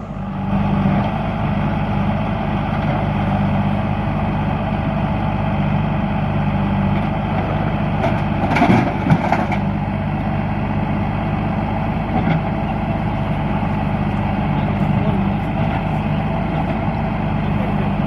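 Heavy diesel engine running steadily, with a brief louder burst about halfway through.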